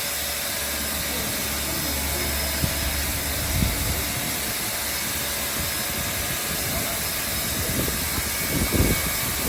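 Steam locomotive 3526 standing with a steady hiss of steam over a low rumble, with a few low thumps near the end.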